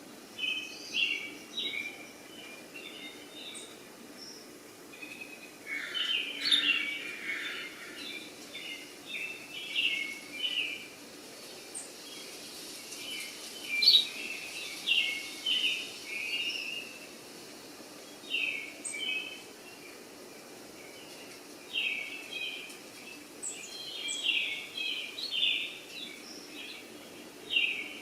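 Birds chirping and calling, short high chirps in repeated clusters, over a faint steady background noise.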